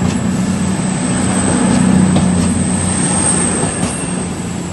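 CrossCountry diesel passenger train pulling out, its diesel engines running with a steady low drone and a high whine over it. The sound slowly fades near the end as the train draws away.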